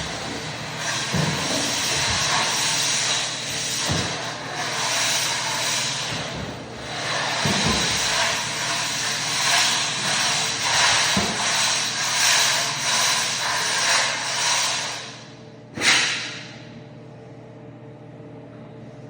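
Electric floor buffer running steadily, its pad working hard wax oil into sanded oak with a loud hiss. It winds down about fifteen seconds in, followed by a single knock.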